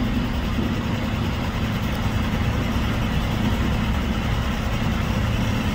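Diesel semi-truck engine idling: a steady low hum.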